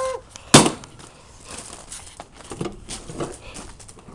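A single hard hammer blow on a refrigerator about half a second in, followed by faint scattered clattering and knocks.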